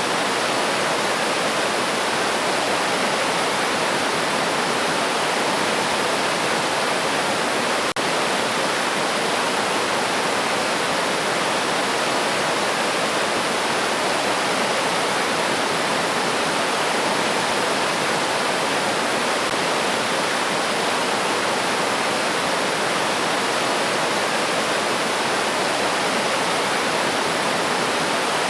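River water flowing: a steady, even rush of moving water with no change over the whole stretch.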